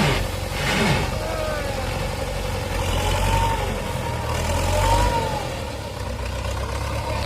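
Tractor engine running steadily, swelling louder about a second in and again around five seconds in as it revs.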